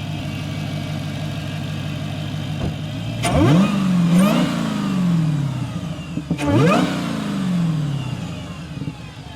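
Dodge Challenger SRT's supercharged 6.2 HEMI V8, breathing through a K&N cone air filter, idling and then revved twice. The first rev peaks twice. Each time the revs fall back to idle, and the supercharger whine rises and falls with the revs.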